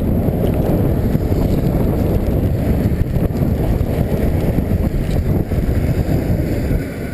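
Wind buffeting the microphone of a camera carried on a mountain bike riding downhill, a loud, steady low rumble that eases a little near the end.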